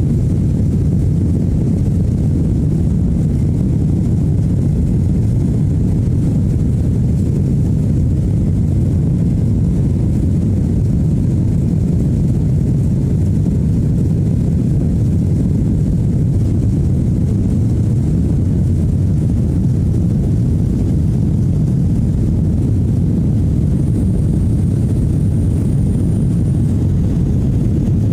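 Airliner cabin noise in flight: a steady, unbroken low rumble of engines and airflow heard from inside the passenger cabin.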